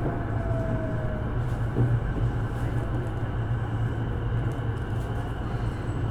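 Sotetsu 12000 series electric train running between stations, heard from inside the car: steady rumble of the wheels on the rails over a low hum. A faint tone slides down in pitch during the first second.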